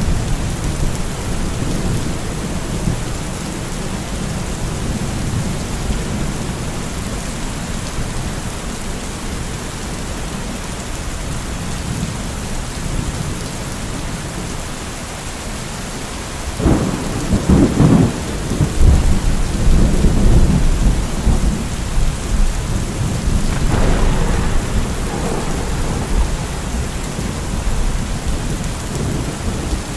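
Steady rain with low rolling thunder. A loud thunderclap breaks a little past halfway through and rumbles on for a few seconds, and a weaker one follows a few seconds later.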